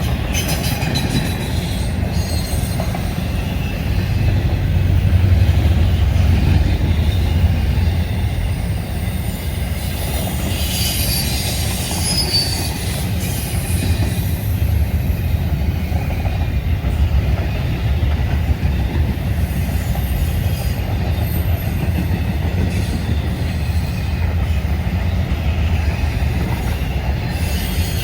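A train's railroad cars rolling past close by: a steady low rumble of wheels on rail, with a stretch of high-pitched wheel squeal about a third of the way through.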